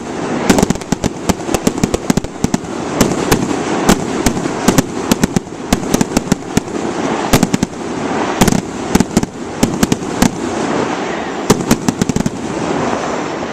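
Fireworks going off in rapid succession: a dense barrage of sharp cracks and bangs, several a second, over a continuous rumble.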